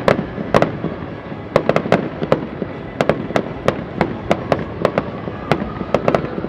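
Fireworks display: an irregular run of sharp bangs and cracks from bursting shells, about three or four a second.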